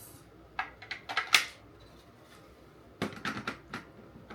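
Plastic parts of a Kenmore Elite upright vacuum being handled and clicked into place: a run of sharp clicks and knocks about a second in, then another run about three seconds in.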